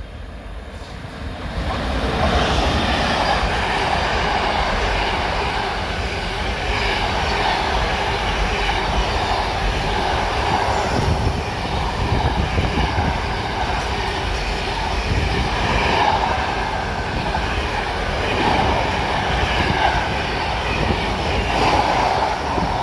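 Class 88 locomotive and its train passing through at speed, a loud rolling rail noise that builds over the first two seconds and holds with repeated swells, fading away at the end.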